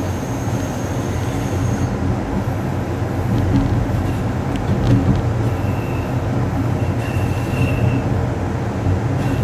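Amtrak Coast Starlight passenger train running, heard from inside its last car: a steady rumble of wheels on rail. Thin high wheel squeals come as it takes a curve, one over the first two seconds and another in the second half. A few light clicks come about midway.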